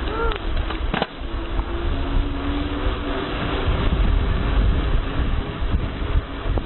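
Wind buffeting the microphone and a steady low rumble while riding a mountain bike fast down a dirt trail, with a single sharp knock about a second in.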